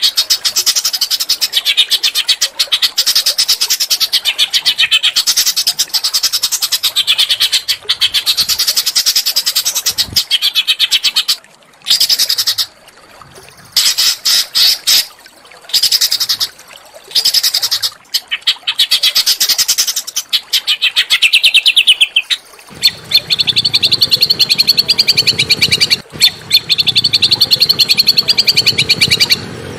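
Small songbirds singing fast, harsh, rapid-fire trills and chattering phrases, broken by a few short pauses. About three quarters of the way through, the song changes to a steadier, fast trill over a low background rumble.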